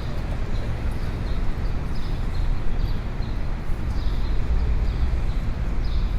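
Busy city street ambience: a steady low rumble of traffic under a general wash of crowd noise, with a scatter of brief high-pitched sounds now and then.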